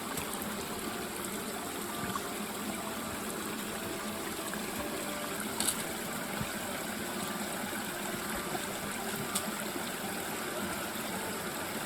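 Steady rush of flowing water from a mountain stream, with a couple of faint clicks.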